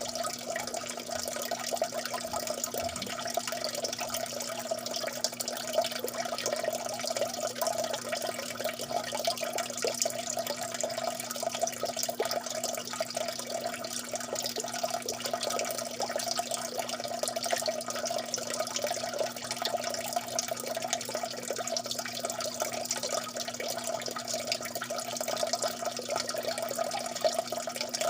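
Water dripping steadily in a dense, even patter of many small drops, with a faint steady hum beneath it.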